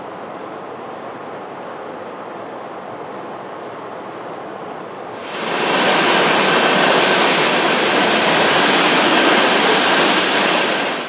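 Steady road noise inside a car cruising on a highway, then about five seconds in a jump to the much louder, steady noise of a freight train's hopper and tank cars rolling past close by.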